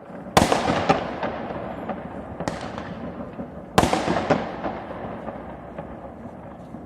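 Fireworks going off: a string of sharp bangs, the loudest about half a second in and near four seconds in, with smaller pops between, each trailing off in a rolling echo.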